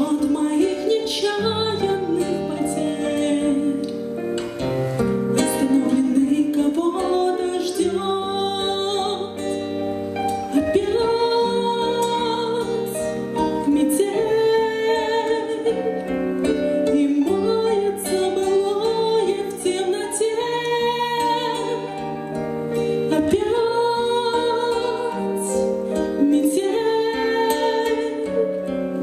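A pop song sung by a woman's voice over keyboard accompaniment, the melody carried without break.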